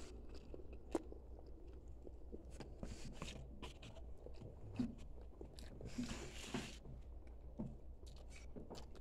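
Faint chewing of food by a person, with scattered small mouth clicks and one sharper click about a second in.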